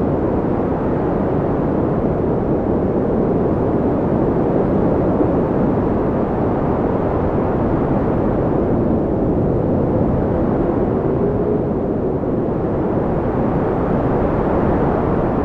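Wind blowing steadily, a low, even rushing noise, with a faint whistling tone that rises and falls about ten seconds in.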